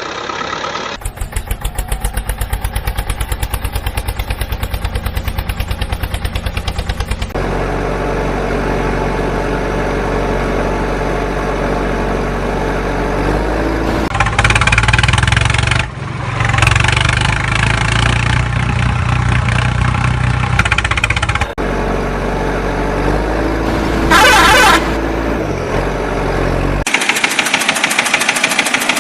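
Engine running and idling in a string of abruptly cut segments, one with a fast even chugging, with a brief high-pitched burst about three-quarters of the way through.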